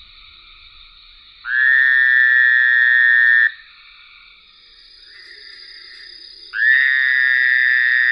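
Recorded frog call: two loud, even trills of about two seconds each, over a fainter steady chorus of other frogs.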